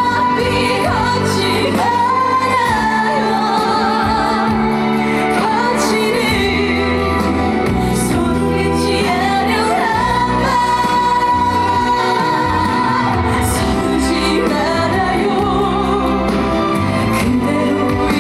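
A woman singing a Korean trot song with a band accompaniment, holding long notes with a wide vibrato.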